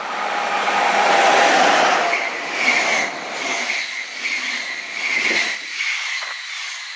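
Electric passenger train, an SBB locomotive hauling coaches, passing close through a station. A rising rush peaks as the locomotive goes by about a second in. Then the coaches roll past with a high wheel-on-rail ringing that comes and goes with each bogie, and the sound fades near the end.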